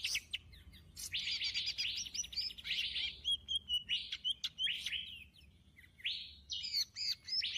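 Birds chirping in quick series of short, high chirps and trills, with a brief complete break about five seconds in.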